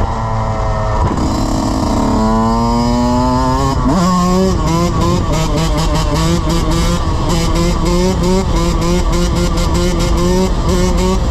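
Dirt bike engine accelerating, its pitch climbing twice through the first four seconds. It then holds a steady high note with small, regular dips in pitch while riding on.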